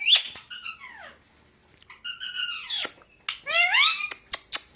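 Pet parakeet calling: a string of short squawks and whistled falling and rising notes, with one harsh screech about halfway through, then a few sharp clicks near the end.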